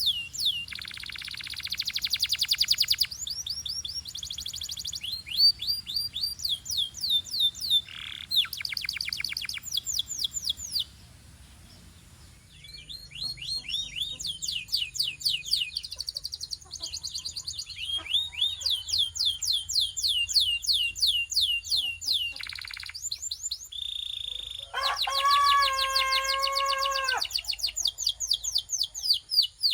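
Belgian canary singing in fast trills of rapidly repeated, high, downward-sweeping notes, phrase after phrase. There is a short pause about eleven seconds in, and near the end a lower, fuller rolling note.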